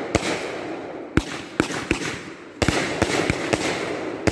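Aerial fireworks going off overhead: a quick, uneven run of sharp bangs, several a second.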